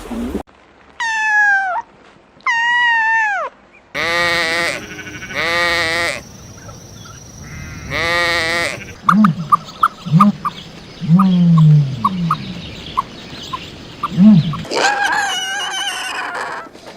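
Goats bleating: a string of separate quavering bleats, with two higher, falling cries near the start. In the middle come short low calls and clicks, before a last bleat near the end.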